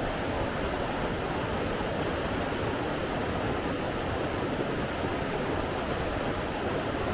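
Steady, unbroken rushing of flowing water, like a stream or small waterfall, with no distinct splashes or swells.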